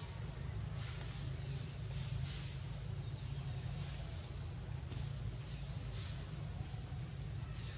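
Outdoor ambience: a steady low rumble with soft, hissy rustles about once a second, and one brief high rising chirp about five seconds in.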